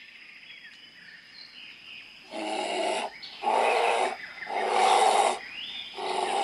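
An animal calling four times: loud, rough, raspy calls, each under a second long and about a second apart, starting a little over two seconds in.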